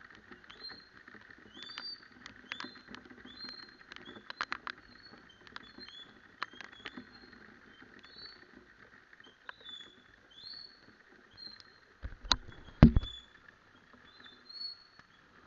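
Rain pattering and tapping on the microphone while riding a motorcycle, with many short high squeaks and clicks scattered through. A heavy thump comes about twelve seconds in.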